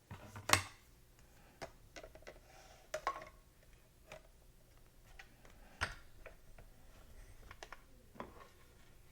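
Scattered light clicks and taps of card stock and a small metal cutting die being handled and repositioned on a craft table. The loudest tap comes about half a second in.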